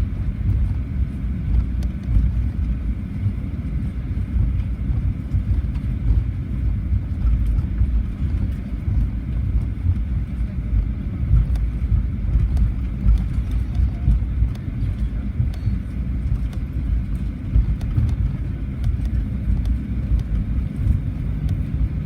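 Steady low rumble inside the cabin of a Boeing 737-800 rolling on the ground after landing, with its engines at idle during the taxi in.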